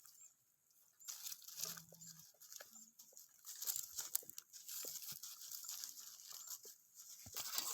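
Tibetan mastiff puppies eating: faint, irregular crunching and clicking of chewing.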